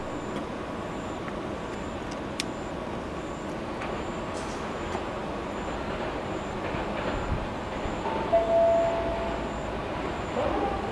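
Steady distant rumble as a freight train hauled by an EF200 electric locomotive approaches from far off, mixed with general urban background noise. A faint high chirp repeats about once a second, and a brief steady tone sounds about eight seconds in.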